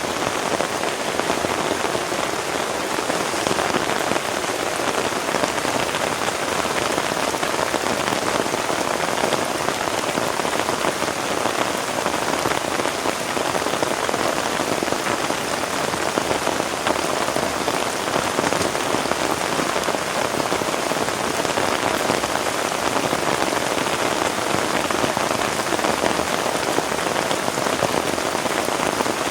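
Heavy rain falling steadily, a dense even patter that holds at the same strength throughout with no letup.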